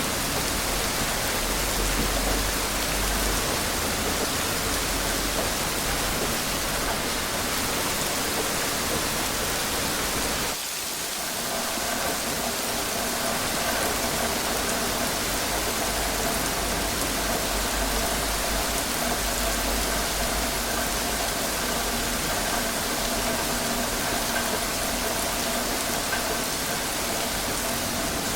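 Steady heavy rain. About a third of the way in it dips briefly and picks up again, and after that a faint steady hum sits under it.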